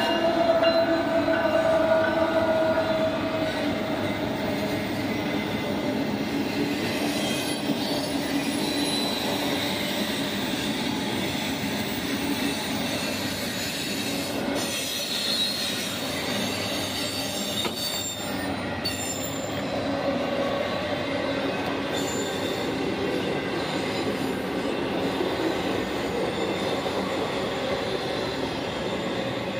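A CSX freight train passing close by. The diesel locomotive goes by in the first couple of seconds, then there is a steady rolling noise of intermodal container cars.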